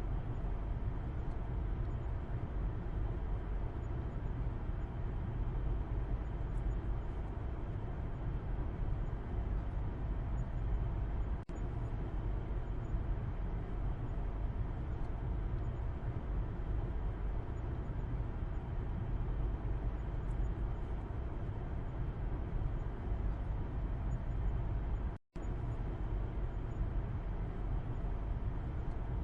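Steady low rumble of car road and engine noise as heard from the back seat inside a moving car. It drops out for a split second about 25 seconds in.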